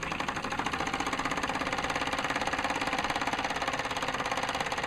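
Mamod SE2 model steam engine running fast under steam, a rapid, even beat from its small cylinder.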